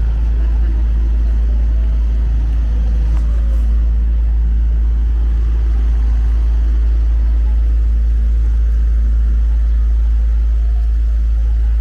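City street noise dominated by a steady, unchanging deep rumble, with a general traffic hum over it.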